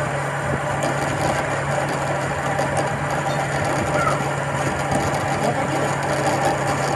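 Metal lathe running steadily: a constant low hum under a continuous wash of noise.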